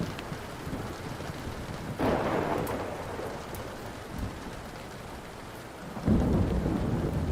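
Steady rain with two rolls of thunder: one breaks suddenly about two seconds in and fades, and a louder, deeper rumble starts about six seconds in and carries on. Faint pops of a crackling wood fire sound through it.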